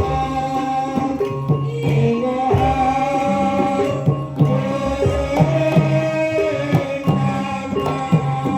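Live Javanese gamelan music for a jaranan (ebeg) horse dance: hand-drum strokes keep a steady beat under long, wavering held melody notes.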